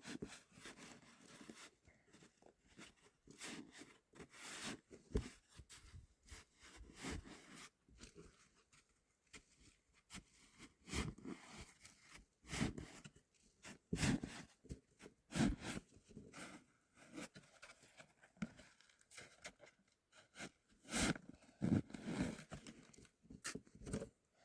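Hard, icy snow being dug and cut by hand: irregular scraping and crunching strokes, a few of them louder.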